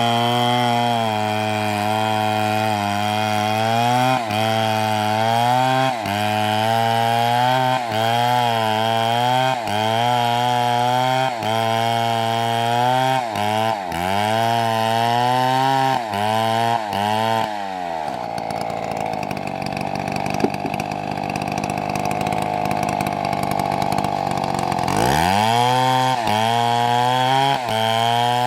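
Two-stroke chainsaw cutting through wood, its engine pitch dipping and recovering every second or two as the chain bites under load. About two-thirds of the way through the revs fall away for several seconds, then sweep back up to full cutting speed near the end.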